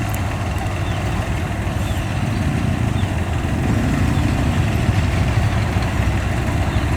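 Steady low rumble of a vehicle engine running, with a noisy haze of road and wind noise over it.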